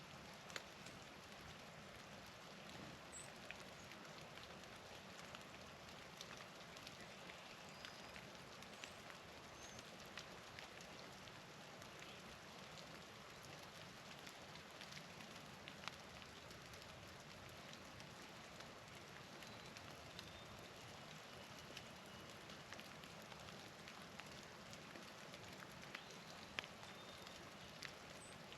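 Faint, steady pattering of wet snow or rain falling, with scattered light ticks. A few brief, faint, high chip notes from small birds come through.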